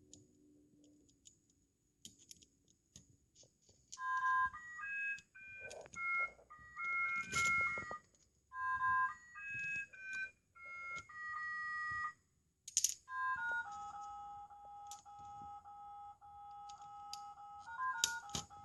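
A few faint clicks, then a simple electronic tune of clean beeping notes begins about four seconds in. It ends on a long, steady two-note tone held for several seconds.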